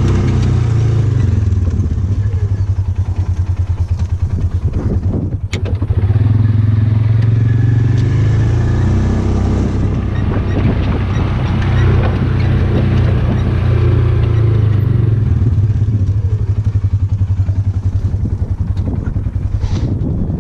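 Polaris farm vehicle's engine running steadily, with a fast low pulsing note, a brief dip and a sharp click about five seconds in.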